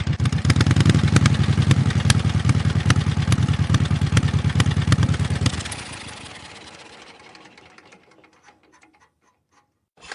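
Motorcycle engine running with a fast, pulsing beat, then switched off about five and a half seconds in, the sound dying away over the next two seconds.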